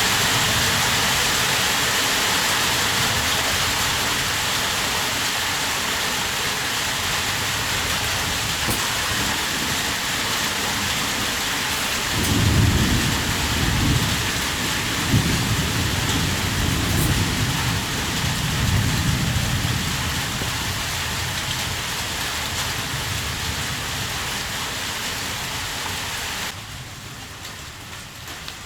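Heavy rain falling steadily. About halfway through, a low roll of thunder rumbles for several seconds. Near the end the rain drops abruptly quieter.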